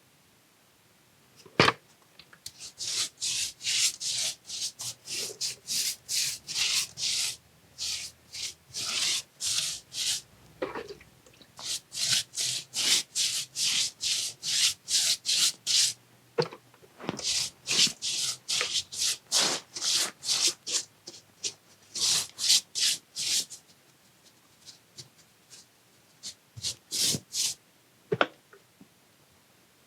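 A brush scrubbing liquid bonding agent onto old brick and mortar in quick back-and-forth strokes, about three a second, in several runs with short pauses between them.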